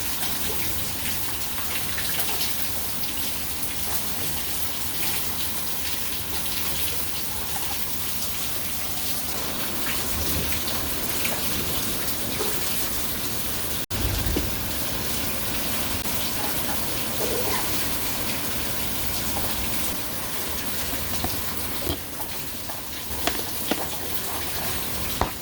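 Steady rain falling and pattering on surfaces: an even, dense hiss, briefly cut off about halfway through, with a few sharper drop ticks near the end.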